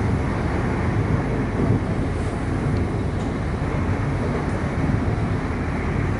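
Steady running noise of an electric suburban train travelling along the track, heard from inside the carriage.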